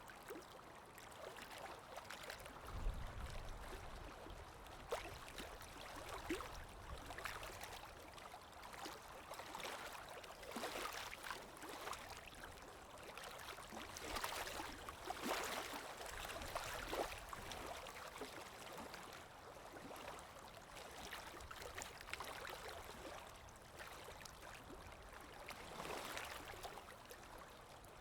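Calm small waves washing in and drawing back, a soft hiss and fizz that swells and eases every few seconds. A brief low rumble comes about three seconds in.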